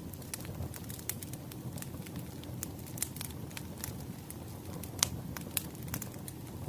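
Wood fire crackling: a steady low rumble with irregular pops and snaps, the loudest pop about five seconds in.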